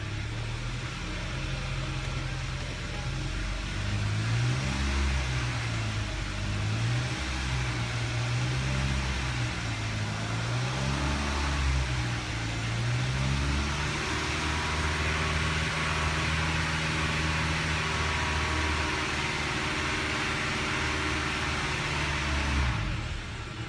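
2011 Hyundai Sonata's four-cylinder engine, just repaired after a spun number one rod bearing, revving up and down several times and then running at a steady speed under load.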